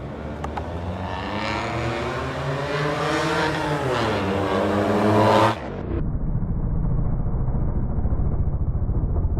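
Suzuki Wagon R engine running through a newly fitted custom exhaust, revving up and dropping back. After an abrupt cut about five and a half seconds in, it turns to a steady, duller low rumble.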